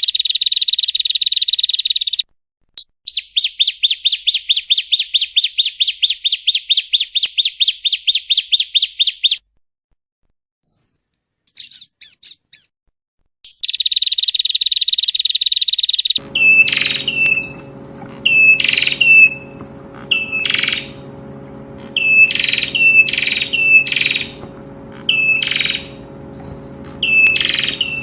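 Recorded prenjak (prinia) song played back. It has buzzy, even trills and a rapid pulsed trill of about five notes a second. After a short gap, a run of sharp, repeated call notes starts about two-thirds of the way in, over a steady background hum.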